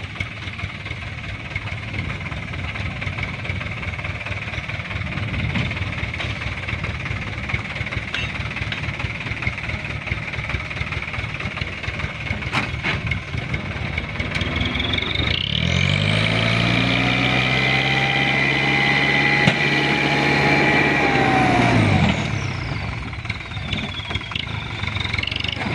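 Hino Dutro dump truck's diesel engine running steadily, then revved up about halfway through, held high for several seconds, and dropping back to a low run near the end.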